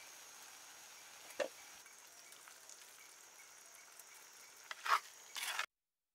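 Shredded vegetables sizzling faintly in a clay pot, with a soft knock about a second and a half in and a few louder knocks near the end. The sound cuts off suddenly just before the end.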